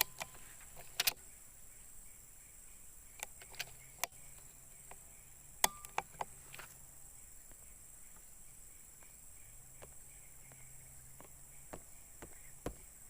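Faint outdoor ambience: a steady high insect drone, with scattered sharp clicks and knocks, the loudest about halfway through.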